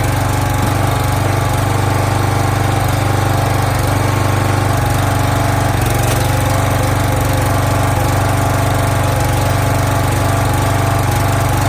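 Log splitter's small gasoline engine running steadily at a constant speed.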